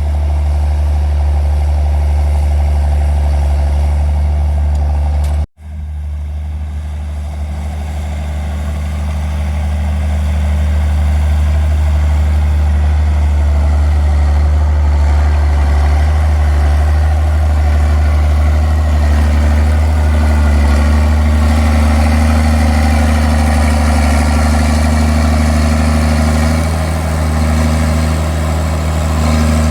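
Straight-piped John Deere 4630's six-cylinder diesel running steadily, with a strong low drone. The sound cuts out for an instant about five seconds in, then runs on slightly louder.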